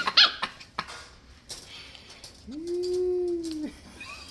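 Scottish Terrier puppy yelping briefly at the start, then one drawn-out whine about two and a half seconds in that rises, holds steady for a little over a second and drops off.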